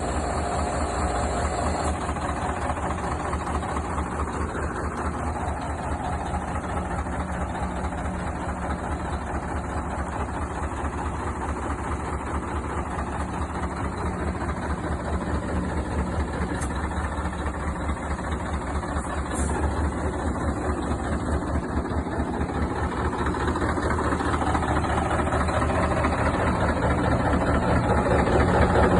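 Car engine idling with a fast, even pulsing, carrying an unexplained noise whose cause the owner is asking about; it gets somewhat louder near the end.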